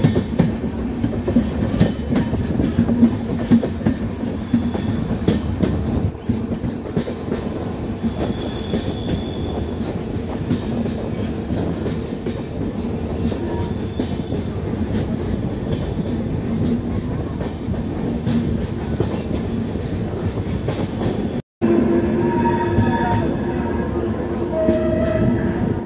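Train running on the track: a steady rumble with the clickety-clack of wheels over rail joints. After a brief dropout about 21 seconds in, a steady tone sounds over the rumble.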